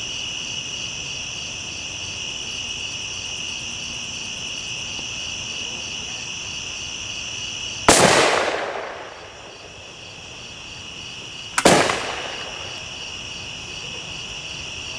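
Two sharp bangs about four seconds apart: oxyhydrogen (HHO) gas ignited inside a hollow tree cavity, the first bang louder with a longer fading tail. A steady chirring of night crickets runs underneath.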